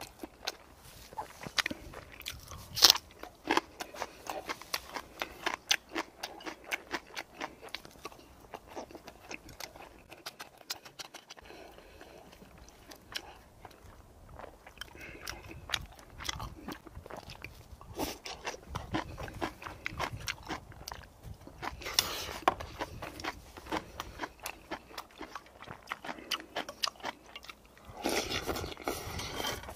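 A man chewing and crunching food close to the microphone, with sharp clicks of chopsticks and a spoon against stainless-steel bowls.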